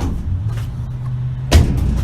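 Industrial grocery-store baler running, its hydraulic power unit giving a steady low hum, with a loud bang about one and a half seconds in.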